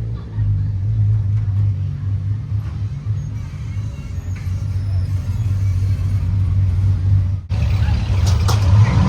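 Car engine running at low revs with a steady low rumble. It cuts off abruptly about seven and a half seconds in and comes back louder, with more hiss above it.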